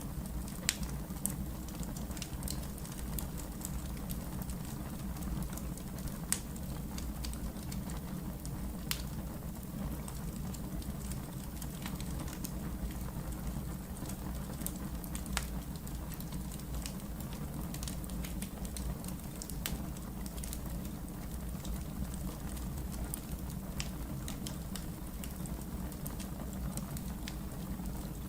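Wood fire burning in a fireplace: a steady low rumble with scattered sharp crackles and pops, a few of them louder snaps.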